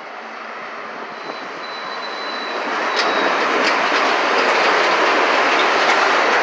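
Metro-North commuter train approaching and passing the platform, its running noise growing louder until about three seconds in and then staying loud as the cars go by. A faint high ring comes from the rails as it nears, and wheels click over the rail joints once the cars are alongside.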